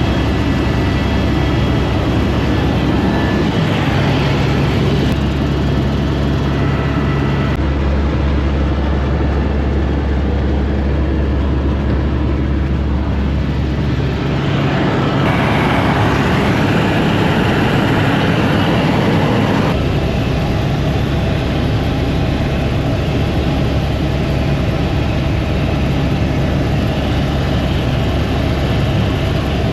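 Helicopter cabin noise in flight: a loud, steady drone of the rotor and engine with a low throb, changing abruptly a few times where shots are cut together.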